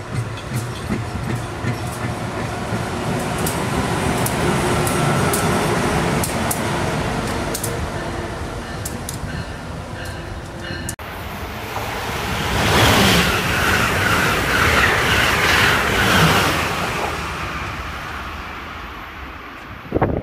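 MARC bilevel commuter train running past, its wheels clicking over the rail joints over a steady rumble. After a cut about 11 seconds in, another passenger train rushes by louder, then fades away.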